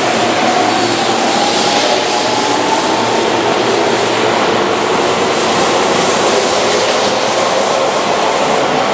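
Keihan 13000 series electric train running, a loud steady rumble of running noise with a motor whine that slowly rises in pitch as it picks up speed.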